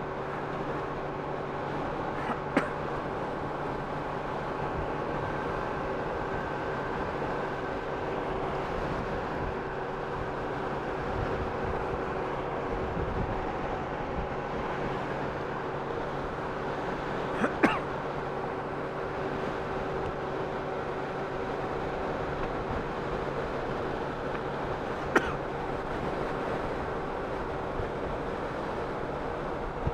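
Honda Gold Wing motorcycle cruising steadily, its engine drone mixed with road and wind noise. Three brief sharp knocks stand out: one a few seconds in, one a little past halfway, and one near the end.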